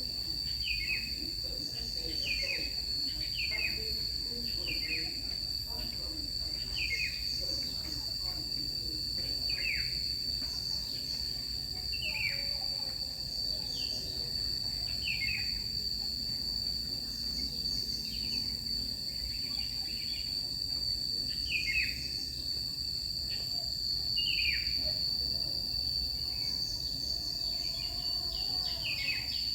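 A steady high-pitched insect drone throughout, with a bird repeating short falling calls every second or two.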